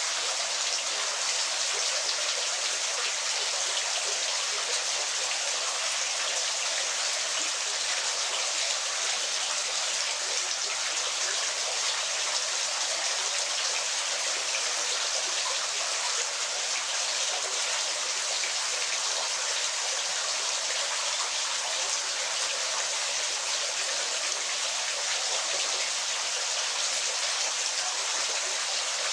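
Waterfall: a steady, even splashing rush of falling water, mostly hiss with little low rumble and no change throughout.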